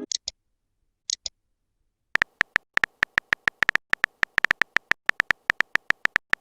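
Messaging-app sound effects: two short, high double blips in the first second, then from about two seconds in a fast, uneven run of keyboard typing clicks.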